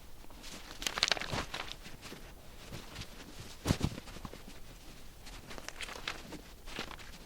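Scissors cutting through fabric, with uneven snipping and rustling of the cloth, a louder cluster about a second in and a single knock about halfway through.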